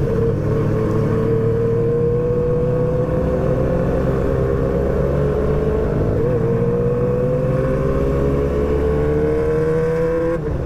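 R6 sportbike engine pulling under acceleration, its note climbing steadily. It dips briefly about six seconds in as the rider shifts up, climbs again, and shifts once more near the end.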